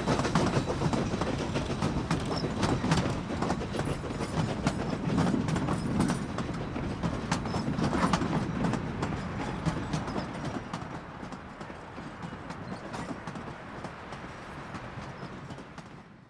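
Narrow-gauge steam train rolling past and away, its wheels clicking over the rail joints in a steady stream of clicks that fade gradually, with wind rumbling on the microphone.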